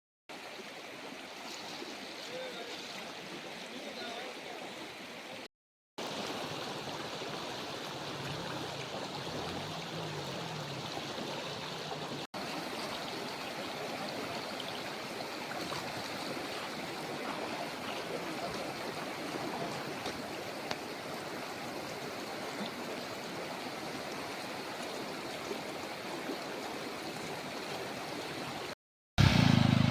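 Floodwater of a swollen stream rushing steadily. The sound is an even hiss of flowing water, broken by brief silent cuts about five seconds in and near the end.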